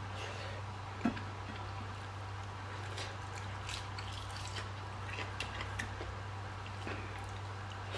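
Close-up eating sounds: wet chewing and lip smacks as rice and boiled chicken are eaten by hand, with a knock about a second in, over a steady low hum.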